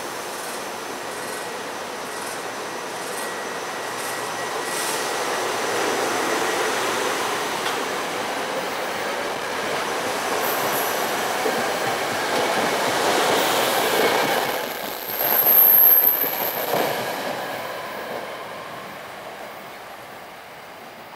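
SEPTA Silverliner IV electric commuter train pulling away and passing close by, its running sound building as it gathers speed. A brief high wheel squeal comes at the loudest point about fifteen seconds in, then the sound fades as the train moves off into the distance.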